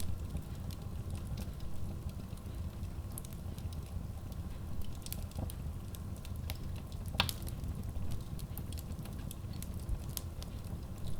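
Wood logs burning in a Kratki Koza K6 stove-fireplace: a steady low rumble of the fire with scattered sharp crackles and pops, one louder pop about seven seconds in.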